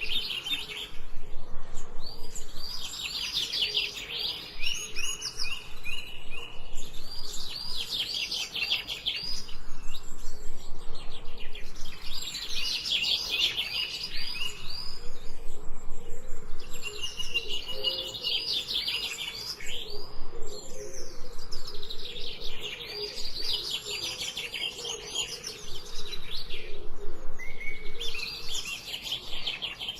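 Songbird singing: bursts of rapid, high repeated notes lasting two or three seconds, coming about every five seconds, over a faint lower-pitched call in the background.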